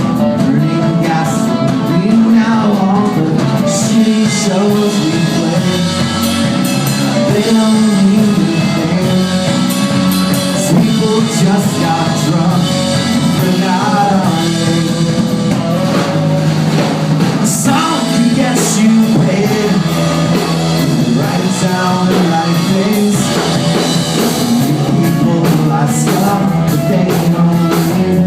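Rock band playing a song, with drum kit and guitar.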